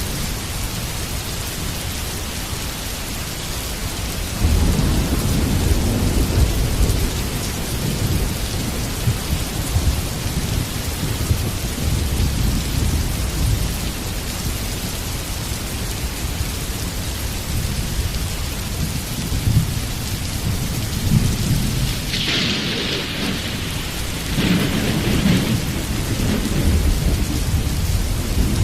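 Heavy rain falling steadily, with thunder rolling in about four seconds in and rumbling on. Two sharper thunderclaps come about two seconds apart, three quarters of the way through, followed by more rumbling.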